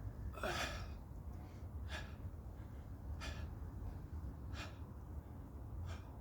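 A man's sharp, forceful exhales about every 1.3 seconds, in rhythm with exercise repetitions, the first the loudest. A steady low rumble runs underneath.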